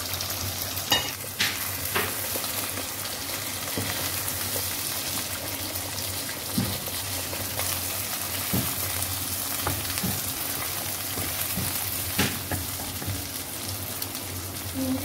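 Two eggs and chicken pieces frying in oil in a non-stick pan: a steady sizzle, with a few short knocks and scrapes of a wooden spatula against the pan.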